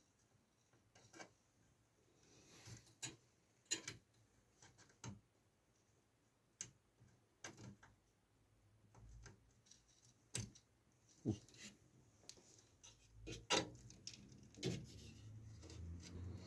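Irregular light clicks and knocks of computer hardware being handled and fitted, about a dozen over the stretch, with a few louder knocks.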